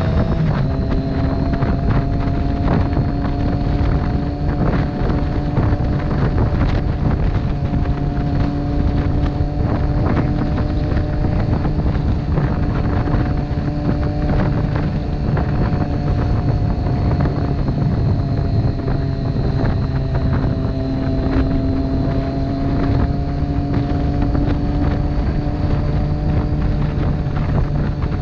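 Motorcycle engine running at a steady speed, with heavy wind buffeting the microphone.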